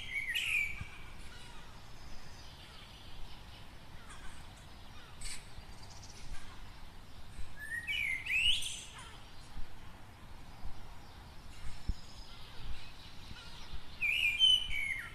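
Several birds singing and chirping, with one loud call phrase rising in pitch that comes three times: near the start, about halfway through, and near the end. Fainter chirps fill the gaps between the phrases.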